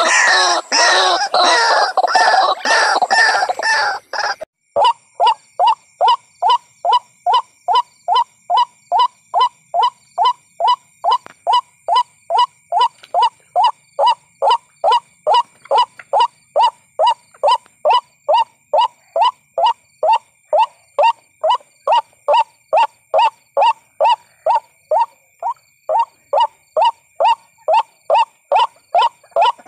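White-breasted waterhen lure call. About four seconds of loud, dense, overlapping calls stop abruptly. Then a steady series of short, evenly spaced call notes follows, about two a second, over a faint steady high tone.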